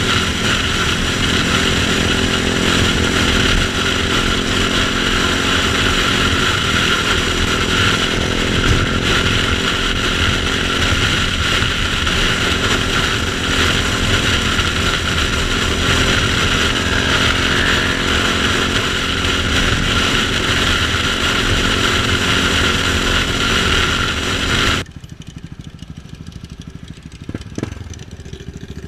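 KTM 690 Duke's single-cylinder engine running at a steady pace while riding. About four seconds before the end the loud engine sound cuts off suddenly, leaving a much quieter background with a few knocks.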